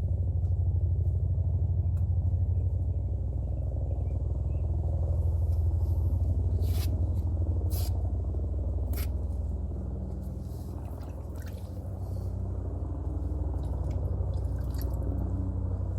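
Helicopter flying past: a steady low rumble with fast rotor pulsing, easing off about ten seconds in and then building again.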